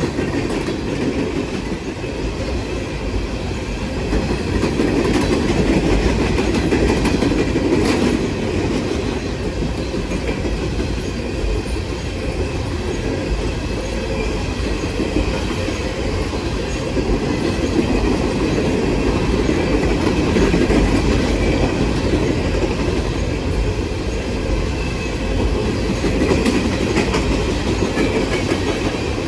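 A train's cars rolling past close by: a steady rumble with wheels clattering over the rail joints.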